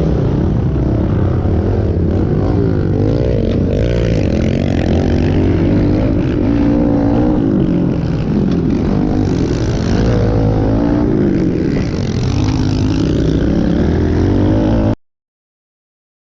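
Pit bike's small single-cylinder four-stroke engine being ridden, its revs repeatedly rising and falling with the throttle. The sound cuts off suddenly to silence near the end.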